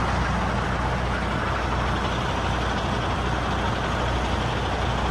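Semi-truck diesel engine idling steadily, a low even hum under a steady rushing noise.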